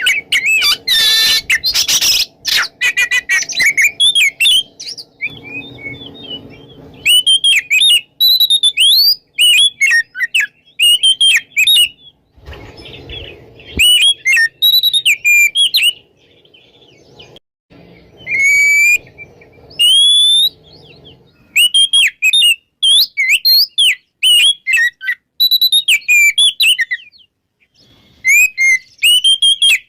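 Oriental magpie-robin (kacer) singing a long, varied song of rapid, loud whistles and chirps in quick phrases with short pauses, the full open song called ngeplong.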